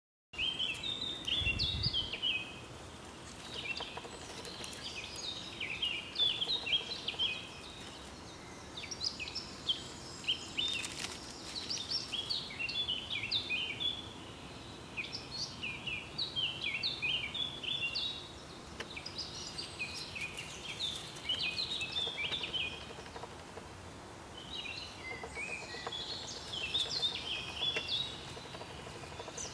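A songbird singing quick, chirpy warbled phrases of a few seconds each, repeated with short pauses. A brief low rumble comes about a second in.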